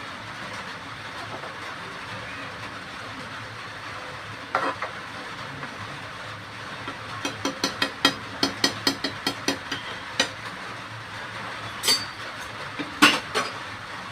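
A metal spoon clinking and knocking against a cooking pot while stirring curry: a quick run of taps, about three or four a second, in the middle, and a few louder knocks near the end, over a steady hiss of the pot simmering on the stove.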